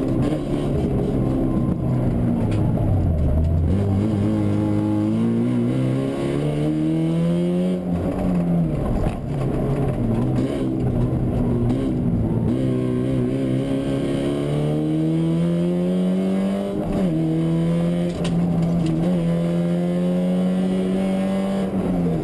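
Fiat Punto 1.8 rally car's four-cylinder engine heard from on board at full stage pace, its revs climbing and dropping again and again as it shifts gears and lifts. Near the end it is held at steady high revs.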